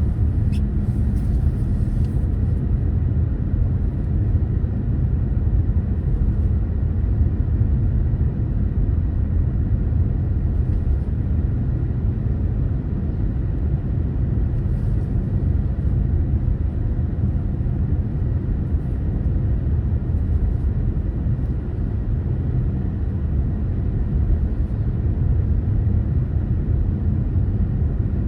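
Car driving, a steady low rumble of engine and tyre noise with a brief click shortly after the start.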